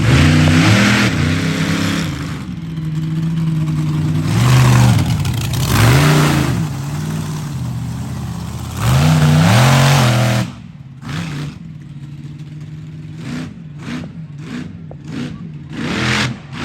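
Monster truck engine revving hard in repeated surges, pitch climbing and falling with each blip of the throttle. About two-thirds through the engine sound drops away suddenly, leaving a string of short sharp bursts.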